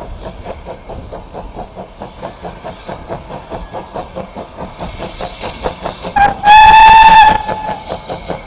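Steam locomotive running, with a fast, even rhythm of beats. About six seconds in it sounds its whistle: a short pip, then a loud, steady blast lasting nearly a second.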